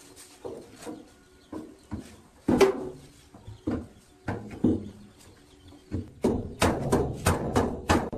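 Metal being struck in workshop work: scattered single knocks, some ringing briefly, with the loudest about two and a half seconds in. From about six seconds in they become a quick steady run of about three strikes a second, like hammering.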